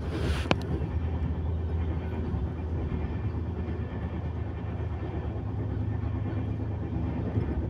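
Passenger train running, heard from inside the coach: a steady low rumble from the wheels and track. A short hiss and a single click come just after the start.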